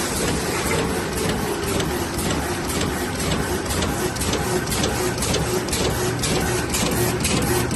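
Plastic bag roll cutting machine running, a steady mechanical whir with a fast, even beat of clicks, about three a second, as it cuts and winds bags onto a core.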